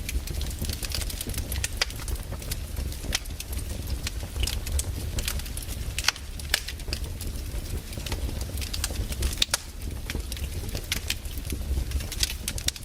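Firewood burning: frequent irregular crackles and sharp pops over a steady low rumble of the fire.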